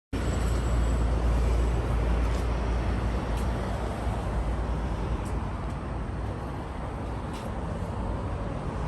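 Car running, a steady low rumble with a few faint ticks over it.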